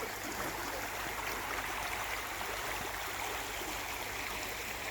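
Rainforest creek water flowing steadily, an even rush of water with rain falling.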